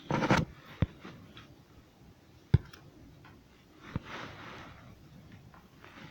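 A few separate sharp knocks, the loudest about two and a half seconds in, with a brief rustle near the start and another a little after four seconds, in a small room.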